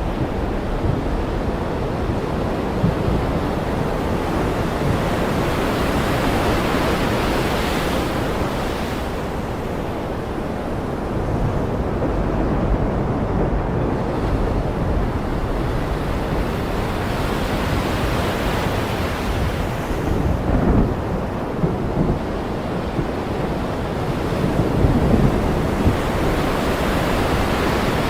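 Ocean surf washing continuously, swelling and ebbing every ten seconds or so, with a few low rumbles of thunder in the second half.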